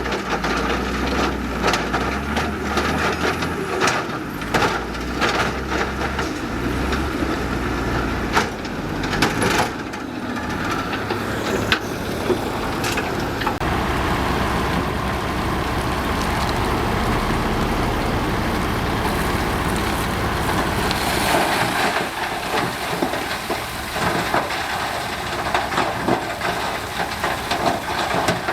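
Heavy diesel earthmoving machinery running, its engine note rising and falling, with irregular crunching, clatter and knocks of soil and rock being moved. The sharp knocks come mostly in the first half; after that the engine settles into a steadier drone.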